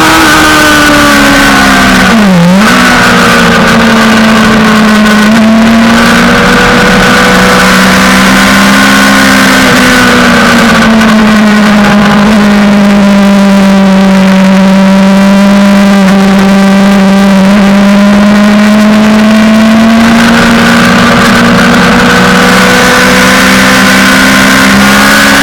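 Suzuki GSX-R600 sportbike's inline-four engine running hard at high revs on track. The pitch dips sharply and recovers about two and a half seconds in, like a quick gear change. It then holds fairly steady, rising and falling gently.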